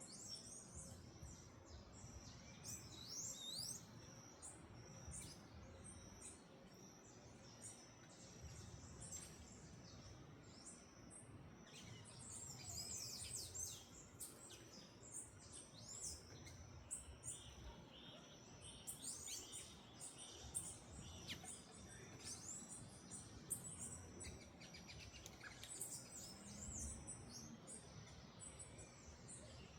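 Several small birds chirping and calling in many short, high chirps and quick glides, busiest about halfway through and again about two-thirds in, over a faint low background rumble.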